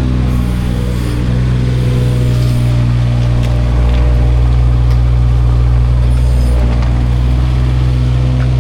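Mini digger's diesel engine running steadily, tested after its burst pipe was repaired.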